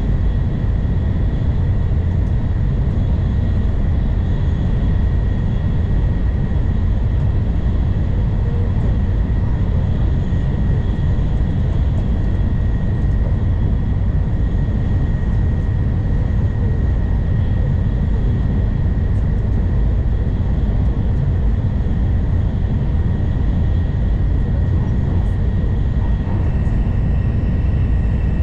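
N700 series Shinkansen running along the line, heard from inside the passenger cabin: a steady low rumble of running noise with a faint, constant high tone over it.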